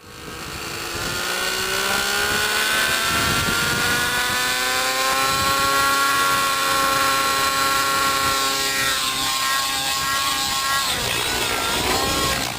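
Nitro-powered RC helicopter (RAVE ENV) running: the engine and rotor make a steady mechanical whine that fades in, then waver up and down in pitch from about nine seconds in as the helicopter manoeuvres.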